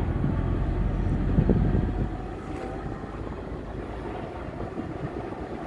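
Low, steady rumble of a vehicle moving along the road, easing off a little about two seconds in.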